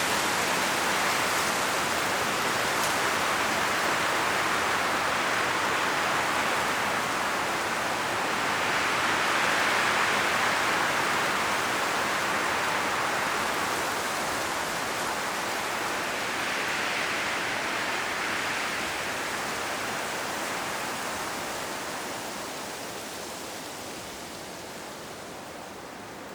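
Wind blowing through autumn forest trees, a steady rush of rustling leaves. It swells in gusts about a third of the way in and again past halfway, then dies down near the end.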